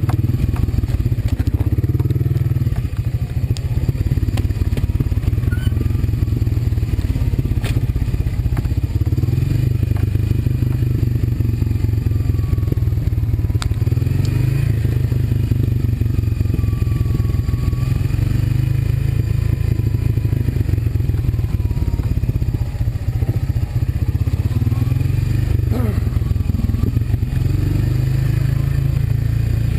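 Honda quad (ATV) engine running steadily while riding, with a dense low rumble and occasional clatters and knocks.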